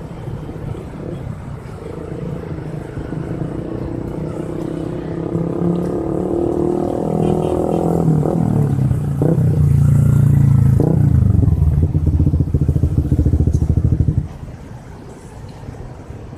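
A small engine comes closer and louder, drops in pitch as it slows to a steady idle, then is switched off and cuts out suddenly near the end.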